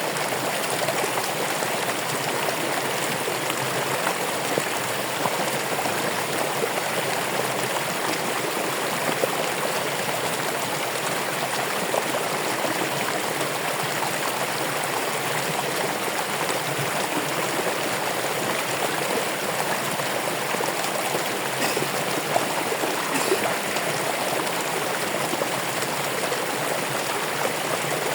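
Running water flowing and splashing steadily, like a stream, with small drips and splashes through it.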